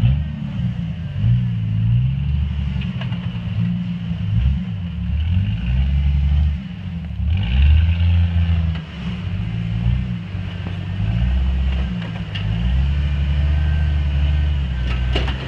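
Jeep engine running under load and revving in repeated swells as it crawls over boulders, with a few sharp knocks.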